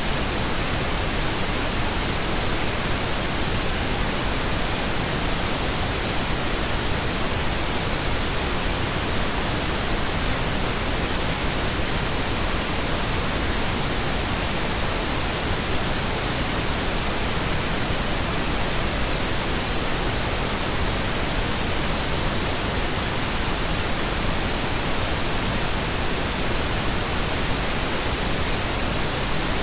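Steady synthetic pink noise: an even, unchanging hiss that is fuller in the lows than white noise.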